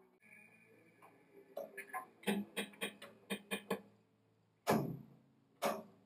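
Four-post car lift settling onto its safety locks: light metallic clicking, about four a second, then two louder ringing metal clunks about a second apart.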